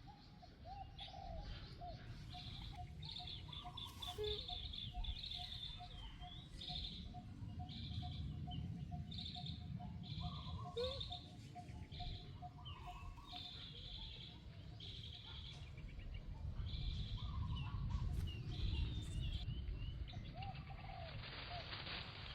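Birds chirping: a short high call repeated about once a second, with a rapid steady trill under it that stops about halfway through, over a low rumble.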